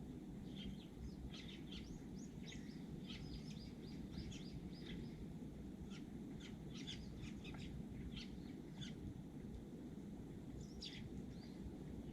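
Eurasian tree sparrows chirping, with many short, sharp chirps in quick runs, a pause of a couple of seconds, then a few more chirps near the end, over a steady low rumble of background noise.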